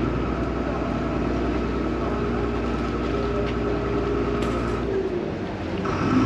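Vaporetto water bus's diesel engine running steadily, a low rumble with a steady whine above it. The rumble drops away briefly about five seconds in and then comes back.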